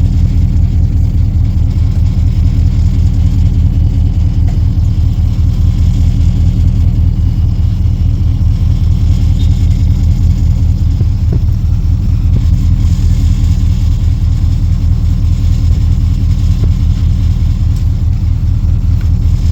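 An engine running steadily with a loud, low, evenly pulsing rumble.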